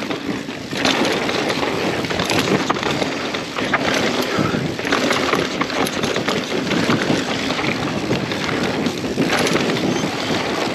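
Wind noise buffeting the microphone over a mountain bike riding fast down a dirt trail, with tyre noise and frequent small rattles and knocks from the bike.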